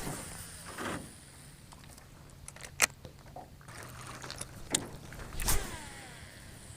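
A few sharp knocks and clicks of handling in a small boat, the loudest about five and a half seconds in, over a faint steady hum.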